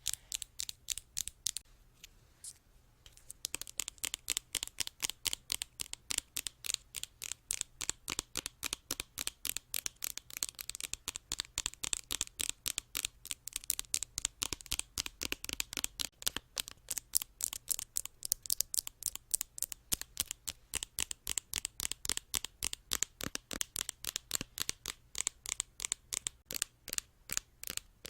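ASMR tapping: fast, even taps on an object, about four a second, with a brief pause about two seconds in before the rhythm resumes.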